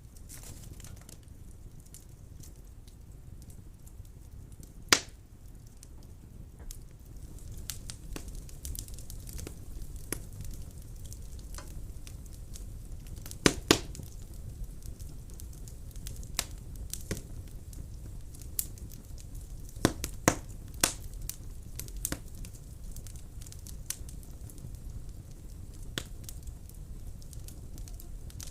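Wood fire burning in a fireplace: a steady low rumble of flame with scattered sharp crackles and pops, the loudest about five seconds in, a quick pair near the middle and a small cluster a little later.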